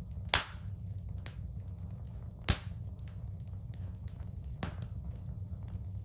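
Wood fire burning in a fireplace: a steady low rumble of the flames with light crackling, and two loud sharp pops about two seconds apart, then a smaller one.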